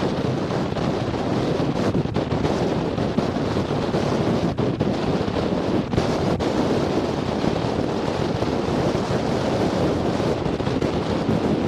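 Wind buffeting the camera's microphone: a steady, dense rushing noise with a few brief dips.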